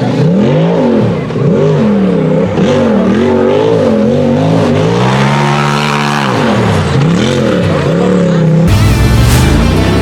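UTV buggy engine revving hard up and down again and again, as on a hill-climb run, with one longer sustained climb in pitch midway. Near the end it cuts off abruptly to a different sound.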